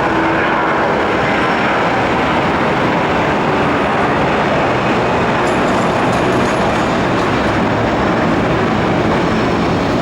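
Airbus A340-300's four CFM56 jet engines at takeoff thrust: a loud, steady roar.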